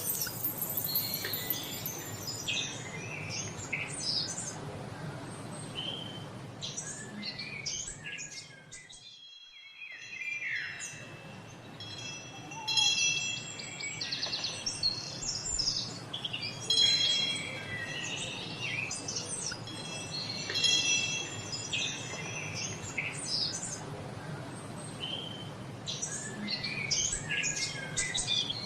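Birds chirping and calling throughout, with chimes ringing in sustained bright tones through the middle, over a steady low background noise.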